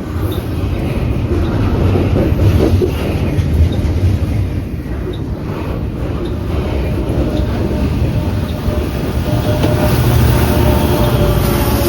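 Steady, loud low rumble with a noisy hiss over it; near the end a few steady tones come in.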